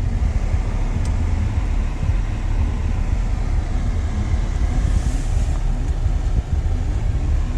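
Steady low rumble inside the cabin of a 2025 Chevrolet Tahoe High Country idling.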